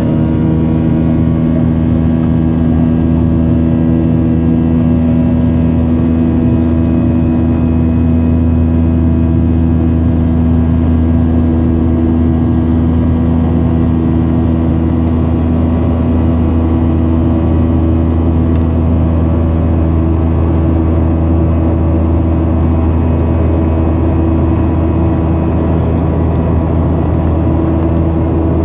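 Boeing 737-800's CFM56-7B jet engines running at high thrust in a steady drone during the climb out after takeoff. It is a deep hum with several steady whining tones, as heard inside the cabin.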